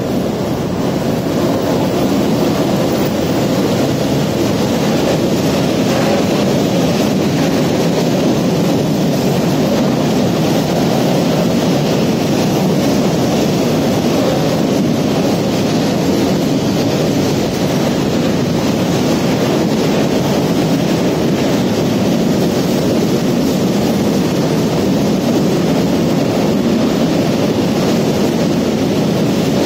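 Freight train hauled by a ZSSK Cargo class 131 electric locomotive rolling past, its long rake of open box wagons making a steady rumble of wheels on rail. The noise builds over the first second or two as the locomotive goes by, then holds level.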